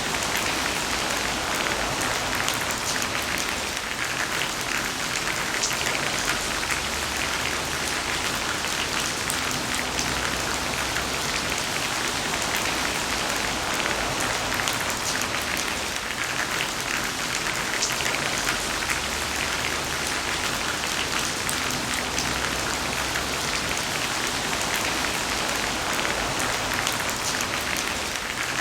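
Heavy rain falling steadily, a dense even hiss of drops spattering on surfaces, with many small drop ticks throughout.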